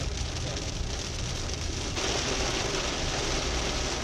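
Rain on a moving car's windshield and roof, heard from inside the cabin over a low tyre and engine rumble. About two seconds in the rain noise turns abruptly brighter and heavier.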